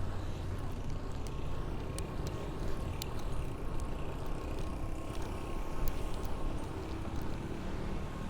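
Steady road and traffic noise of a fixed-gear bicycle ride through city streets, with a few faint clicks.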